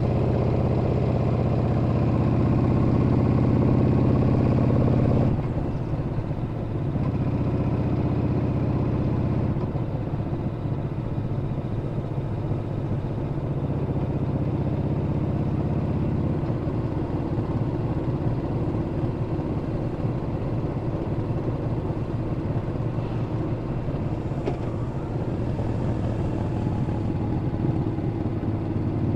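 Yamaha Bolt's air-cooled V-twin engine running on the move: a strong, even engine note for about five seconds that drops away, picks up twice more, then sits low under road and wind noise for the second half.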